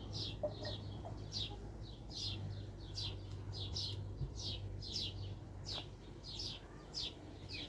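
A bird chirping over and over, short high chirps that drop in pitch, about two or three a second, over a low steady hum.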